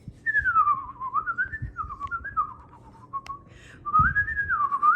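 A person whistling a tune: a single clear pitch sliding up and down in short phrases, with a brief pause about halfway through.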